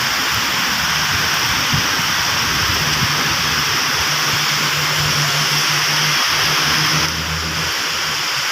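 Heavy tropical rain pouring down in a steady hiss, with a motor vehicle's engine running low underneath. The rain eases slightly about seven seconds in.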